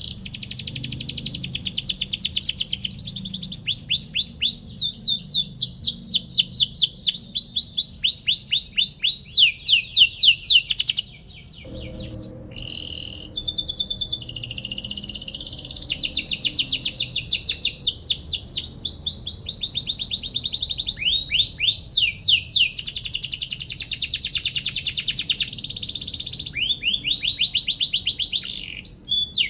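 Domestic canary singing a long, unbroken song of fast trills: rapid runs of repeated sweeping notes, each run at a different speed, with a brief pause about eleven seconds in.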